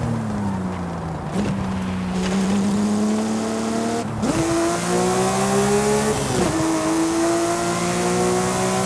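Porsche 911 Speedster's flat-six engine driving. The revs fall at first, then climb gradually under load, with short breaks about a second and a half, four and six seconds in where gears are changed.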